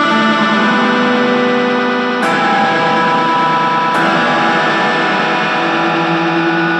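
Distorted electric guitar, a Fender Telecaster, played through a Boss DD-3 delay pedal: a dense, sustained wash of noisy chords, with new notes struck about two and four seconds in.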